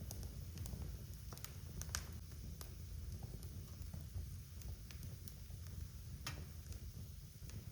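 Wood fire crackling in a fireplace: irregular sharp pops and snaps over a low steady rumble, with the loudest snaps about two seconds in and just after six seconds.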